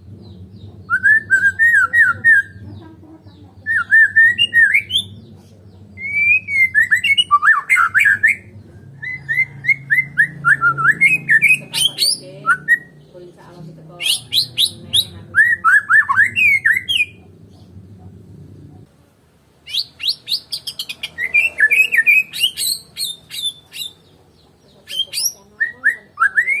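White-rumped shama (murai batu) singing: bursts of rapid whistled phrases that slide and trill up and down, separated by short pauses. A low steady hum runs underneath for the first two-thirds and then stops.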